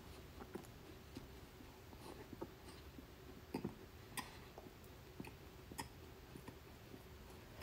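Faint, close chewing of a mouthful of corn muffin, with scattered small mouth clicks.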